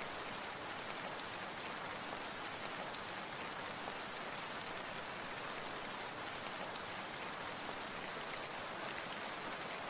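Steady water sound, an even hiss with no break or change.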